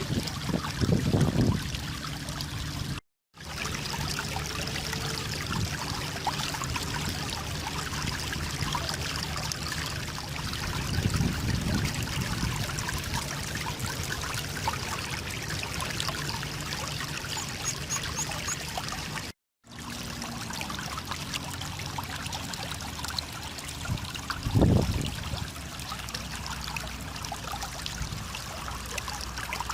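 Steady rush of running water, like a stream flowing, with a few low thumps. The sound cuts out completely twice, about three seconds in and again about twenty seconds in.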